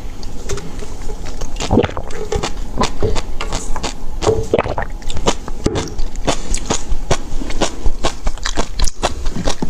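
A person biting and chewing crunchy food, a quick irregular run of crisp crunches.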